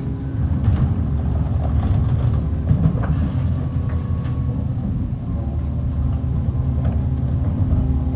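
Garbage truck engine running steadily, with scattered light clanks and knocks over the hum.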